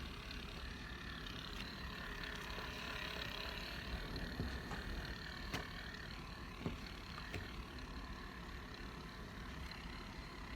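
Small makeup-sponge washing machine running, its motor whirring steadily while it spins the sponge, with a few faint clicks partway through.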